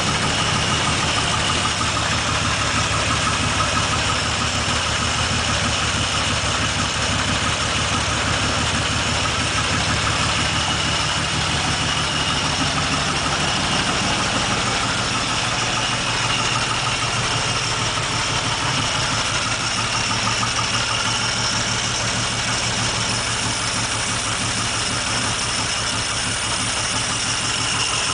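1947 Dodge flathead straight-six engine running steadily, its note shifting slightly about halfway through. The owner suspects a rod knock, which he hears just above idle.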